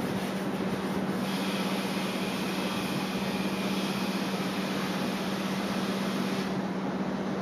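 Strong typhoon wind blowing steadily, heard as an even rushing noise over a constant low hum. A faint higher hiss joins about a second in and fades out near the end.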